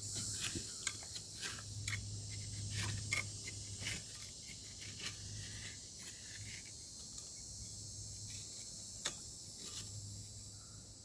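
A hand tool jabbing and scraping in damp dry-mix concrete in a post hole: a run of short gritty scrapes and clicks that thins out after about four seconds, with one sharper click near the end, over steady cricket and insect chirring.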